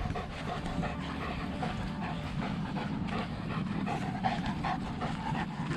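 Dogs panting steadily, with a faint whine partway through.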